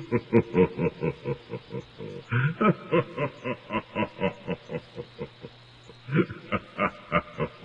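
An animal making short pitched grunting sounds in a steady rhythm, about four to five a second, with a brief higher rising call a couple of seconds in.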